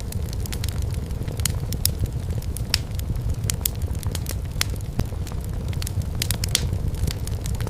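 Wood fire in a fireplace crackling, with irregular sharp pops and snaps several times a second over a steady low rumble of the burning logs.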